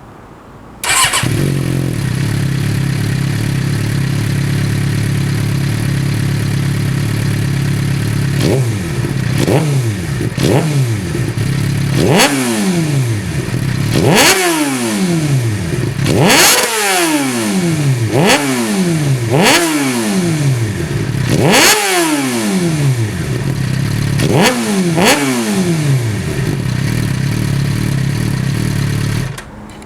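Suzuki GSX-R 600 K6 inline-four with a Yoshimura R55 slip-on exhaust (race catalyst and dB-killer fitted). It starts about a second in and idles steadily. About a third of the way in, a run of about ten quick throttle blips begins, each revving sharply up and dropping back to idle. It idles again, then cuts off just before the end. The note is loud and deep.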